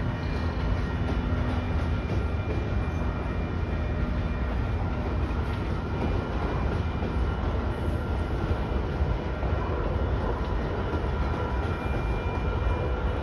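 Freight train of covered grain hopper cars rolling past a grade crossing: a steady rumble of steel wheels on the rails.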